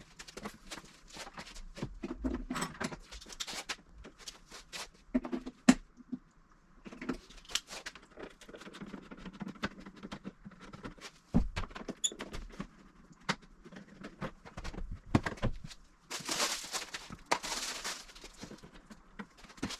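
Irregular clicks, knocks and occasional thuds of hand work on a car, tools and parts being handled, with two brief hissing or scraping noises near the end.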